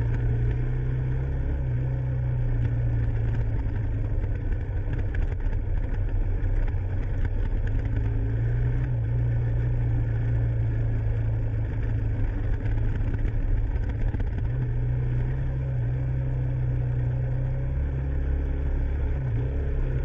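Dirt bike engine running steadily at riding speed on a gravel road, its pitch shifting slightly with small throttle changes.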